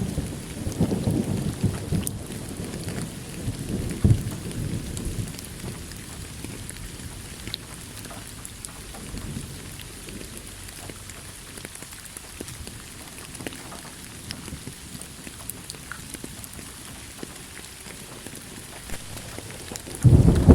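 Steady rain falling, with rolling thunder. Low rumbles in the first few seconds die away into plain rain, and a loud thunderclap breaks in near the end.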